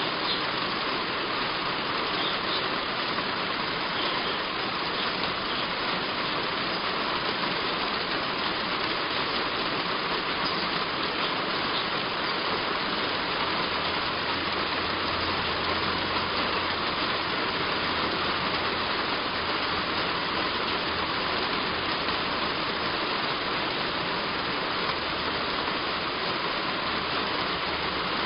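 Heavy rain falling on a roof: a steady, even hiss with no breaks. A faint low rumble joins about halfway through.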